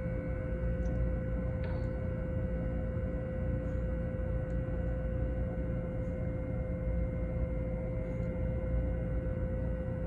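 A steady hum with one constant mid-pitched tone and a few fainter tones over a low rumble, unchanging throughout.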